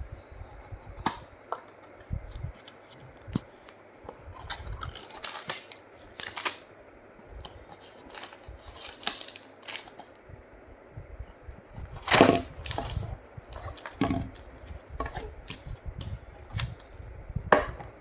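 Irregular clicks, taps and rustles of a craft kit's pieces and packaging being handled and opened, with two louder knocks, one about two-thirds of the way through and one near the end.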